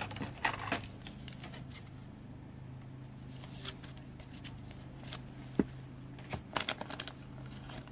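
Trading cards being handled, with soft rustles and scattered light clicks over a steady low hum. There is a sharper click a little past halfway and a quick run of small clicks near the end.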